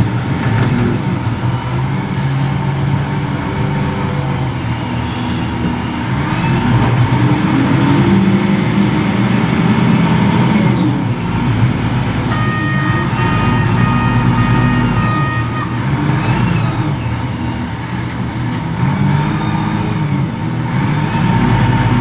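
Reach stacker's heavy diesel engine running under work, its pitch rising and falling repeatedly as it revs up and down, with a steady high tone held for about three seconds midway.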